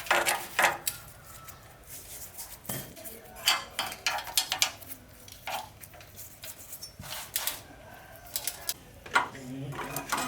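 Metal parts and tools clinking and tapping at irregular intervals, some strikes ringing briefly, as in hands-on work on an old bicycle.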